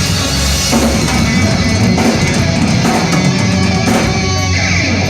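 Hard rock band playing live: electric guitar over drum kit, loud and steady.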